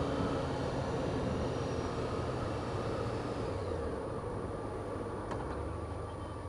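Honda CBR600F4i sport bike's inline-four engine running at steady cruise over wind and road noise, the engine note easing slightly lower as the bike backs off.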